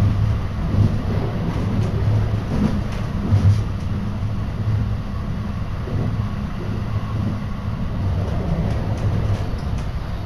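Interior running noise of an Osaka Loop Line commuter train in motion: a steady low rumble of the carriage and wheels on the track, with a few faint clicks.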